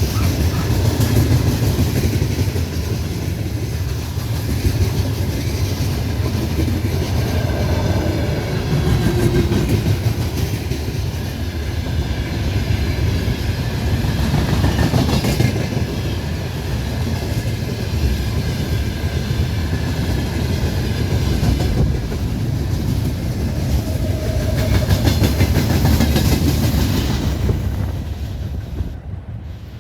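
Freight train rolling past, its wagon wheels clattering over the rail joints in a steady rumble that drops away near the end.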